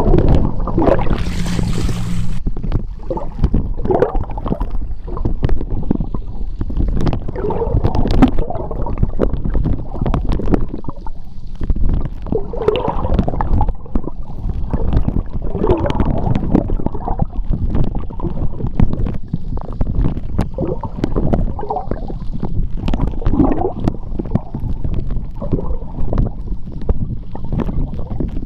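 Seawater heard underwater in a tidal strait: a continuous churning rumble with gurgling bubbles and scattered clicks. A low steady hum sits under it for the first two seconds or so.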